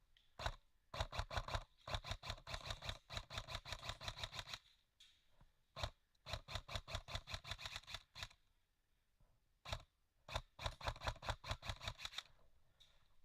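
Airsoft gun firing: several rapid full-auto bursts of about nine or ten shots a second, with single shots between them.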